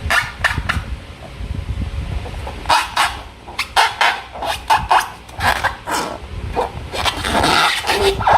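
Slime and rubber balloons being handled: irregular wet squishing, crackling and clicking noises in quick uneven bursts, with a brief squeak near the end.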